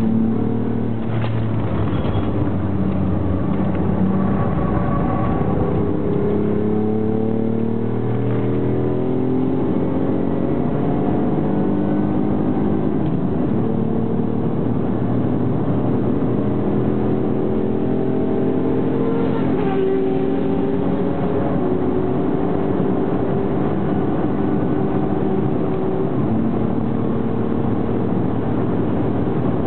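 Mk2 Ford Mondeo ST's 2.5-litre V6, fitted with stainless headers and a full 2.5-inch exhaust, heard from inside the cabin while it is driven hard on a race track. The engine note climbs steadily in pitch as the car accelerates a few seconds in, then holds high with smaller shifts in pitch as the throttle and gears change.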